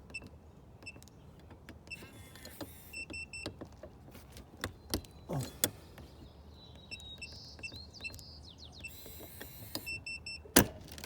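Keyless-entry keypad on an RV entry door beeping in short quick groups as a code is punched in, with short whirs of the electric lock actuator after each entry. Two loud sharp clacks near the end as the door latch is worked.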